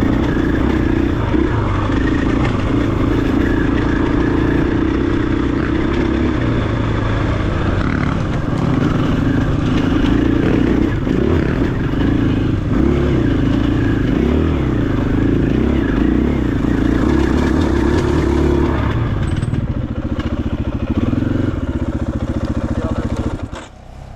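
KTM 500 EXC-F single-cylinder four-stroke enduro engine running under load on a rocky climb, its revs rising and falling as the rider works the throttle, with rocks clattering and scraping under the tyres. The engine note drops off sharply near the end.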